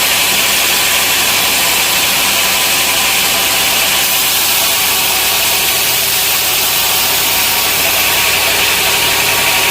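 Sawmill machinery running steadily: an engine-like hum under a constant hiss.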